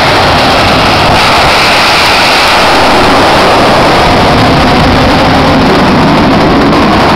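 Jet truck's turbine engine running loud and steady at high power, a dense rushing noise with no break.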